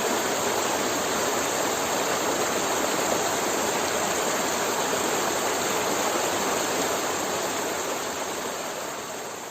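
River water flowing in a steady, even rush, which fades down over the last couple of seconds.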